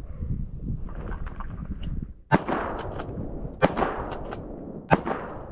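Three loud shotgun shots about a second and a quarter apart, with fainter cracks between them, over wind rumbling on the microphone.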